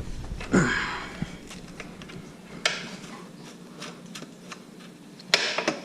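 Hand tools working on the exhaust bolts of a small two-stroke three-wheeler: scattered metallic clicks and clinks, a louder scraping clank about half a second in, and a cluster of sharp clicks near the end.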